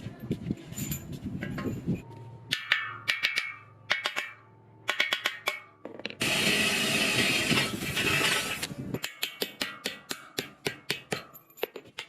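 Hand tool work: sharp knocks and taps, about three seconds of harsh scraping noise from roughly six seconds in, then rapid regular clicking at about four a second.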